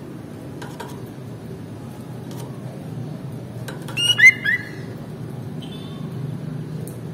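Sooty-headed bulbul (kutilang) giving one short burst of quick, sharp chirping notes about four seconds in, over a steady low background hum.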